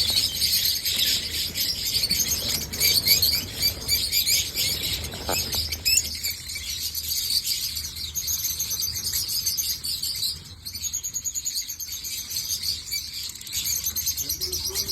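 Many lovebirds chirping at once, a dense, continuous high-pitched chatter.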